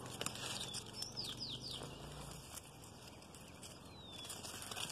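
Faint rustling and light clicks of leafy branches being disturbed, with a small bird giving three quick falling chirps about a second in and one more near the end.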